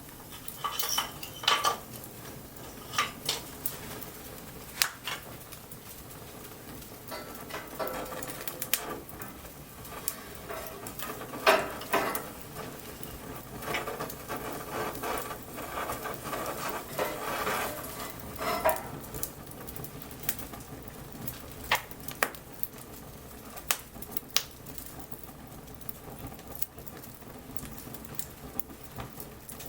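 Wood bonfire crackling, with sharp pops at irregular intervals and busier stretches of hissing crackle between about 8 and 19 seconds in.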